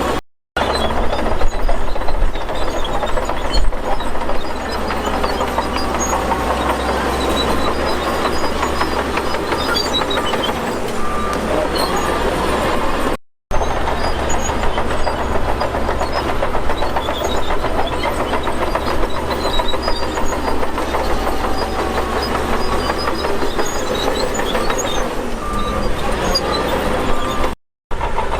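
Heavy diesel earthmoving machinery running steadily under load, with faint whines that slide up and down. The sound drops out briefly three times: near the start, about halfway and near the end.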